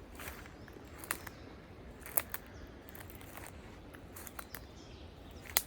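Footsteps on a forest trail, faint and irregular, about one step a second.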